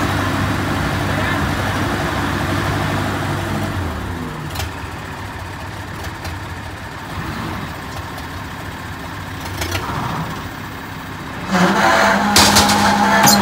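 Howo self-loading truck's diesel engine running with a steady hum, which falls away about four seconds in. Near the end a louder sound takes over, with a sustained higher tone on top of the engine.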